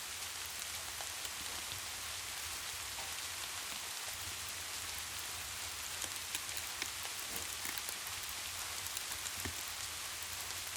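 Steady rain falling on a surface, an even hiss with scattered light ticks and pops that grow more frequent in the second half.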